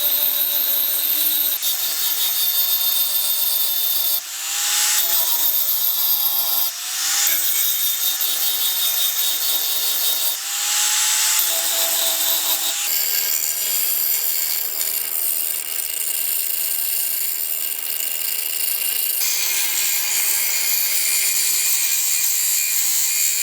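Electric power tool running on a workpiece. Its motor note sags briefly three times in the first half, as if pressed into the work. It then gives way to a noisier grinding texture.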